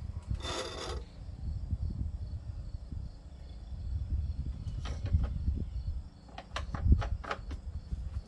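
Push lawn mower's small engine running unevenly just after its carburetor was cleaned and refitted, with clusters of clattering clicks and scrapes over the low rumble.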